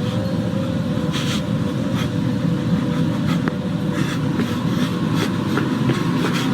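A loud, steady rumbling drone with a constant hum, broken by irregular crackling clicks.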